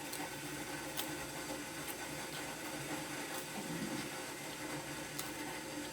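Steady room noise with a low hiss and a few faint ticks.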